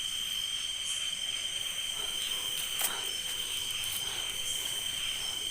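Night insect chorus of crickets trilling steadily at two high pitches, with one faint tap a little before three seconds in.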